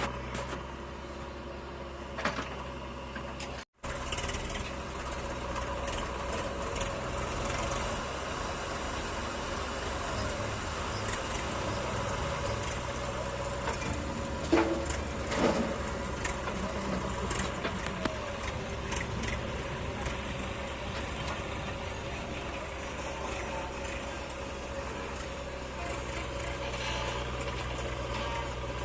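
Heavy diesel engine of a tractor or backhoe loader running steadily. The sound drops out for an instant about four seconds in, and there are two brief louder sounds about halfway through.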